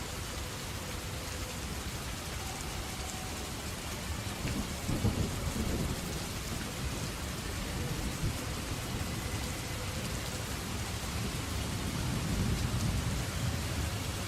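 Steady rain falling, with two low rolls of thunder: one about a third of the way in and one near the end.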